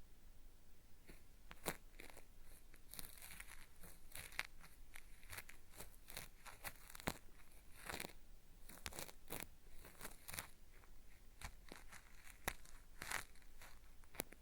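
Cotton swab rubbing and scraping at the ear of a binaural microphone, a quick, irregular run of gritty crackles and rasps, made as a 'zari-zari' peeling-style ear-cleaning sound.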